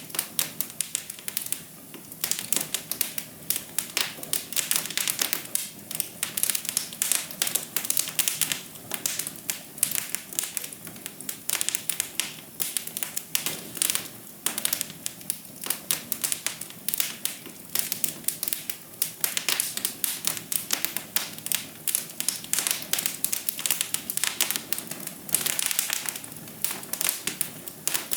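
Wood fire crackling in a fireplace: a dense, irregular run of sharp pops and snaps.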